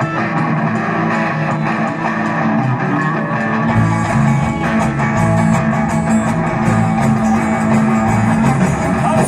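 Live rock band playing a song's instrumental intro, led by guitar; the bass and the rest of the band come in fuller about four seconds in.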